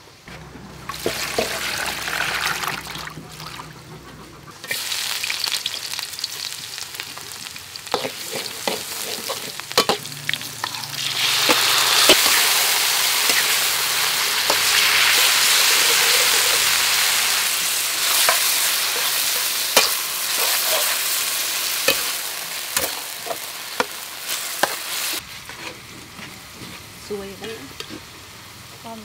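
Sliced beef sizzling in a hot wok as a metal spatula stirs it, scraping and clicking against the pan. The sizzle is loudest through the middle and drops to a quieter frying near the end.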